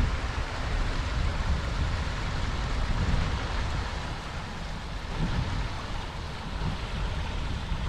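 Creek water rushing steadily, with wind buffeting the microphone in an uneven low rumble.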